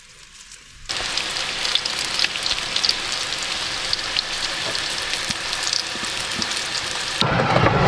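Fresh smallmouth bass frying in olive oil in a pan: a steady sizzle with scattered crackles and pops, starting about a second in. Near the end it cuts to a lower, rougher noise.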